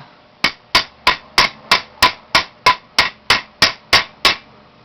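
A hammer striking freshly welded steel about a dozen times, evenly at about three blows a second, each blow a sharp metallic clank, checking that the weld is on there pretty good.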